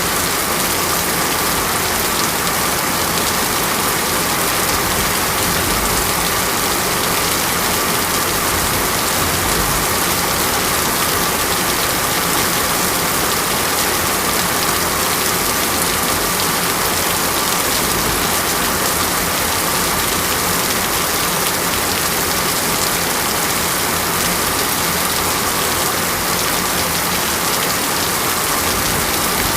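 Steady heavy rain falling, an even unbroken hiss, with a faint steady tone running underneath.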